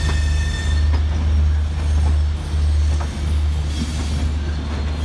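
Passenger coaches of a departing express train rolling past close by: a steady low rumble of wheels on rail, a thin high wheel squeal in the first second, and a few faint clicks from the wheels.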